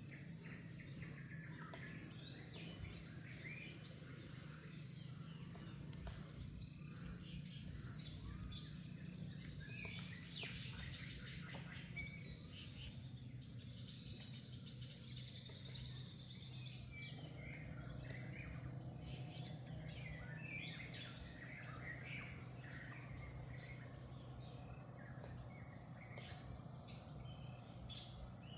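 Many short, high chirps and squeaks from small animals, scattered through the whole stretch, over a steady low background hum.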